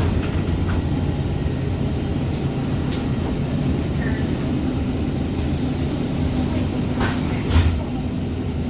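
MAN Lions City G articulated bus's drivetrain running under way: a steady low drone from the engine, differential and gearbox, with a short low thump about three-quarters of the way through.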